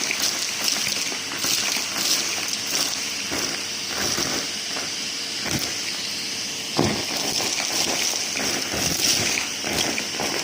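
Numatic James cylinder vacuum cleaner running with a steady rushing hiss of air, while debris from a mess test crackles and rattles as it is sucked up through the hose.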